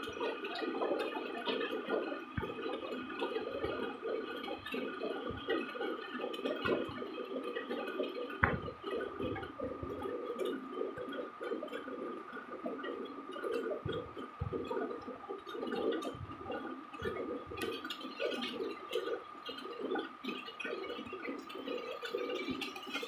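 Rainwater running and gurgling, with scattered drips and soft knocks, over a steady high-pitched tone.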